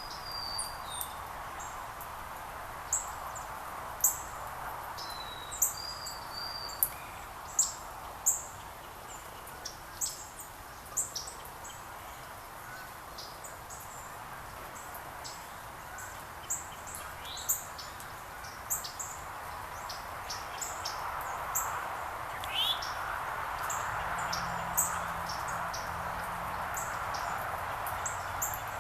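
Small winter songbirds (sparrows, northern cardinals and a towhee) giving scattered short, sharp chip calls and a few brief whistled notes, with a quick rising note about two thirds of the way in. Underneath is a steady background hiss that grows louder near the end, where a low hum joins it.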